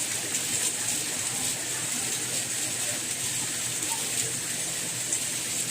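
Steady soft rain: an even hiss with faint scattered patter of drops.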